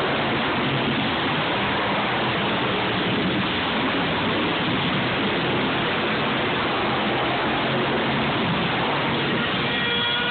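Monster truck engines running loud and steady, heard as a dense, unbroken noise. Music starts just before the end.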